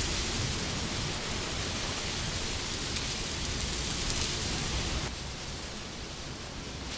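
Steady wind noise that eases off about five seconds in and picks up again near the end.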